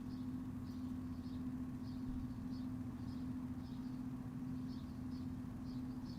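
Backyard ambience: a steady low mechanical hum, with short high chirps repeating about twice a second over it.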